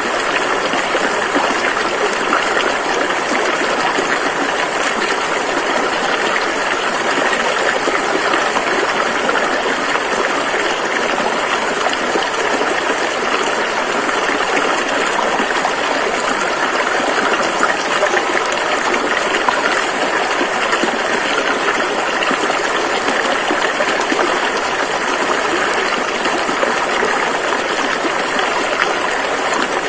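Rushing river water flowing steadily.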